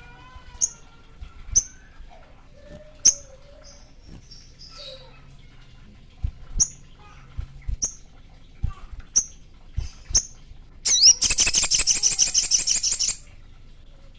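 Sogon bird calling: a string of short, high chirps about a second apart, then a loud, fast, buzzy trill for about two seconds near the end.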